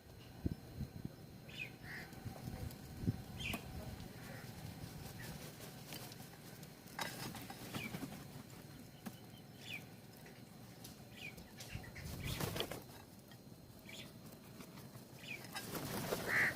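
Birds at a bird feeder: scattered short chirps and light tapping, with a burst of wing flapping about twelve seconds in and another near the end.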